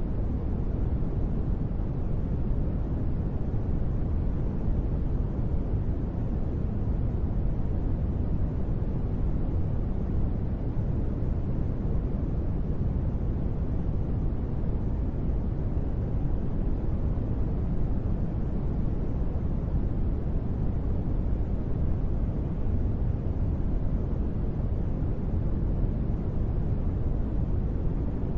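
Steady, muffled rushing noise, deep and even, with no separate drops, bursts or changes: a sleep-aid noise track billed as gentle rain white noise.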